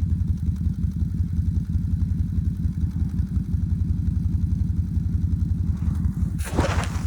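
CFMoto UForce 800 side-by-side's engine running steadily with a fast, even low throb while it plows snow. A short rushing, scraping noise comes near the end.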